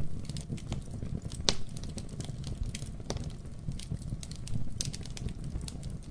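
Wood fire burning in a fireplace, a low rumble of flame with frequent irregular crackles and pops, the sharpest about one and a half and three seconds in.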